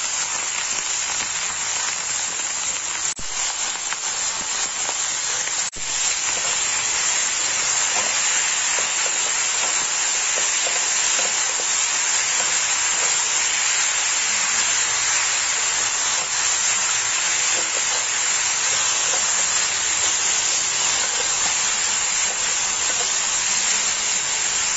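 Chopped bottle gourd sizzling in hot mustard oil in a kadai, a steady hiss that breaks off briefly about three and six seconds in.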